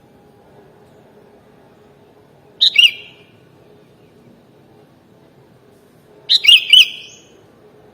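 Sooty-headed bulbul (kutilang) calling: two short, bubbly phrases, one about three seconds in and a longer one near the end, over a faint steady hum.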